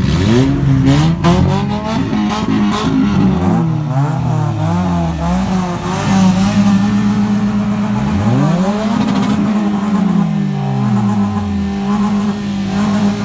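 Several car engines revving at once, their pitches rising and falling and overlapping. From about halfway, one engine holds a steady pitch while another revs up and back down.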